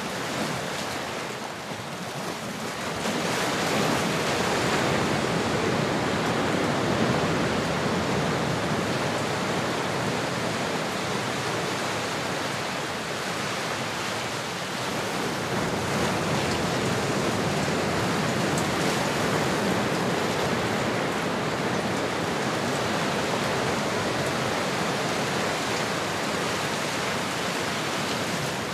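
Ocean surf: a steady rush of waves washing in. It swells about three seconds in, eases off around the middle, and builds again.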